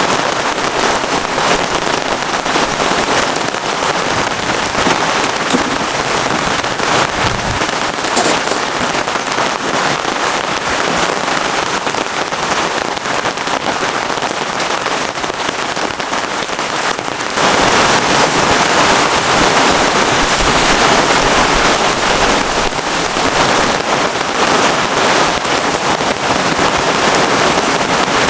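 Heavy rain falling in a dense, steady hiss of drops, which turns suddenly louder about two-thirds of the way in.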